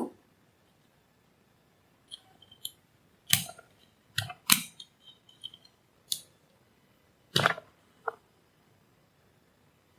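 Scattered sharp clicks and taps of small metal hand tools at a workbench, about eight of them, the loudest in the middle, while a resistor is taken off a power-supply board.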